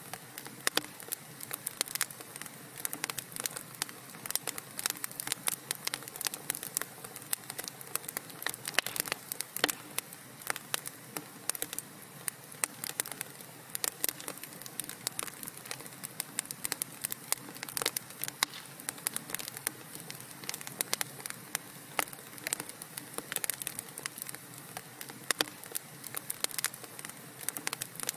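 Wood fire burning in a fireplace, crackling steadily with many sharp pops and snaps over a soft hiss.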